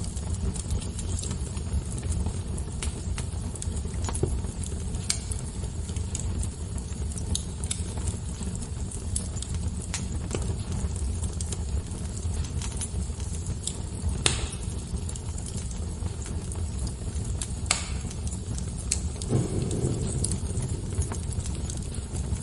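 Wood fire crackling: a steady low rumble of burning with scattered sharp pops and snaps, two louder pops about fourteen and eighteen seconds in.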